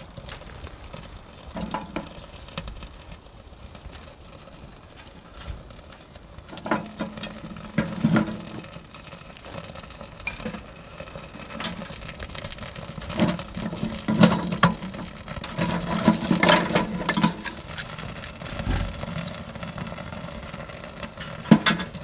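Irregular knocks, clicks and rustling from handling camping gear, with a cluster of louder knocks in the second half.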